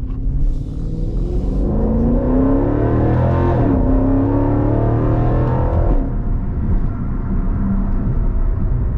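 Jeep Grand Cherokee SRT's 6.4-litre HEMI V8 accelerating hard, heard from inside the cabin. The engine note rises, drops at an upshift about three and a half seconds in, climbs again, then falls back to a quieter steady cruise about six seconds in.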